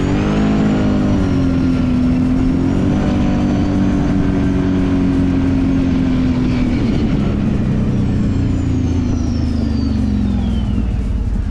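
Kawasaki Brute Force 750 ATV's V-twin engine running under throttle on a trail. It holds a fairly steady pitch, then falls away over the last few seconds as the quad slows.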